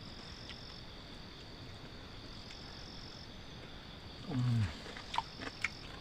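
Forest insects buzzing in a steady high-pitched drone, with a second, slightly higher note switching on and off. About four seconds in there is a short low groan falling in pitch, and a few faint clicks follow near the end.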